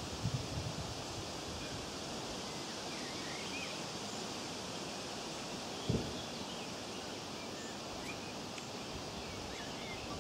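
Steady outdoor hiss with faint, scattered high bird chirps, and a single dull thump about six seconds in.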